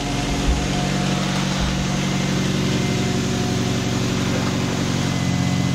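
Freshly rebuilt 2002 Mazda Protege5 2.0-litre four-cylinder engine idling steadily shortly after its first start. It sounds good to the builders, with no valve tap.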